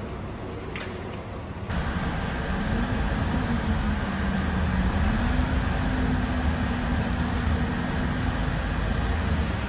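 Steady low rumble of a moving vehicle, with a low hum that rises and falls in pitch. It gets louder suddenly a couple of seconds in.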